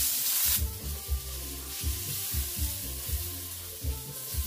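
Julienned ginger sizzling in olive oil in a wok as it is stirred with a wooden spatula; the sizzle is loud at first and drops away about half a second in. Background music with a beat plays underneath.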